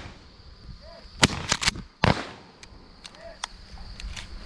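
Shotgun shots fired at flying pigeons: a quick burst of several reports about a second in and a single loud shot with a trailing echo about two seconds in, followed by a few faint distant pops. A steady high insect drone runs underneath.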